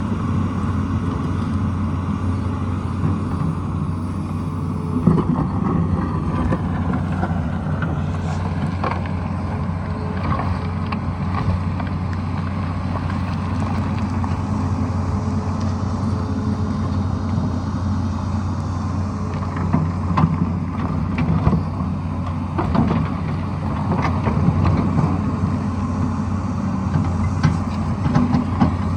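Tata Hitachi excavator's diesel engine running steadily, with scattered short knocks and clatters, more of them in the second half.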